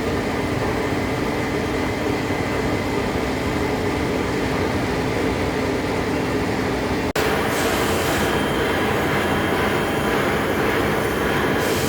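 Heavy-duty lathe running as it turns a large steel part: a steady mechanical noise with a few held tones. It breaks off for an instant about seven seconds in and resumes slightly brighter.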